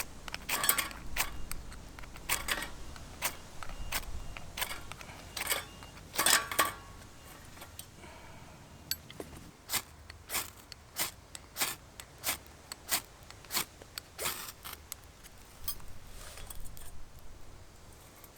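Wood fire crackling in a Solo Stove Titan fire pit: sharp, irregular snaps and pops, with a run of about seven evenly spaced clicks a little over half a second apart in the middle.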